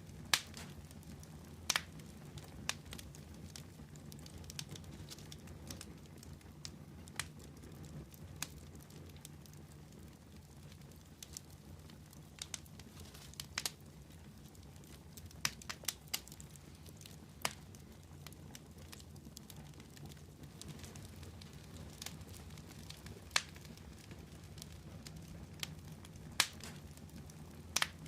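Fire crackling, with irregular sharp pops and snaps scattered every second or two over a low steady rumble.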